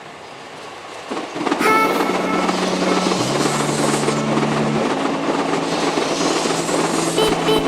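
Tokaido Shinkansen train passing over points: a loud, steady rushing that swells up suddenly about a second and a half in.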